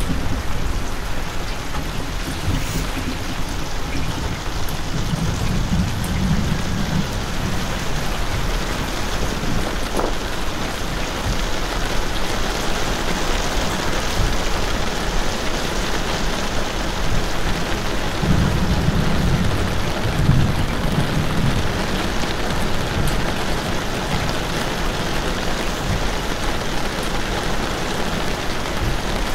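Steady rain falling, an even continuous hiss, with a low rumble swelling twice: around six seconds in and again around twenty seconds in.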